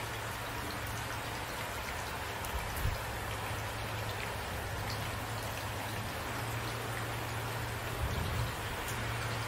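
Steady rain falling, an even hiss with scattered drop ticks, joined by a low steady rumble and two brief low thumps, one about three seconds in and one near the end.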